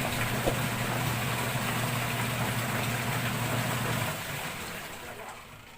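Washing machine running on test with a newly replaced gearbox: a steady motor hum that stops about four seconds in, the sound then dying away.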